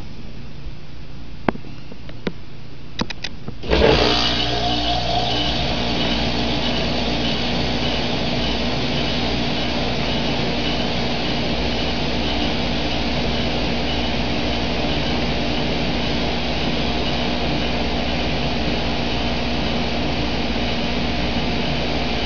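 A 2008 Goodman packaged heat pump starting in cool mode. A few clicks come first, then the compressor and fan come on suddenly about four seconds in and settle into a steady run with a hum.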